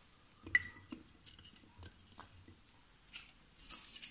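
Light knocks and clicks of small split firewood pieces being laid crosswise on a log stack inside a wood stove, with one sharper click about half a second in that rings briefly.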